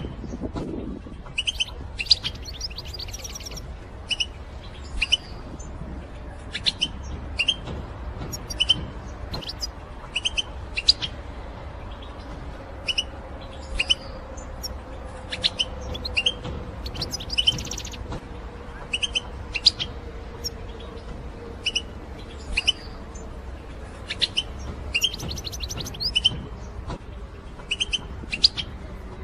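Female European goldfinches giving their short 'betbeta' contact calls in a group: quick sharp chirps, singly or in little runs, about once or twice a second. A faint steady hum runs underneath.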